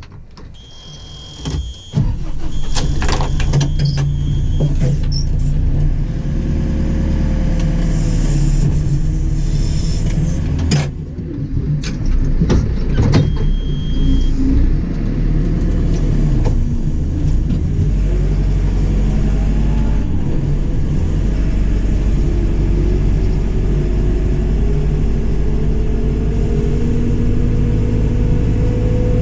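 JCB 4CX backhoe loader's diesel engine, which comes in loud about two seconds in and then runs steadily under load, with short high-pitched cab warning beeps twice early on and once more about 13 seconds in. In the last ten seconds the engine note rises slowly as the machine is driven.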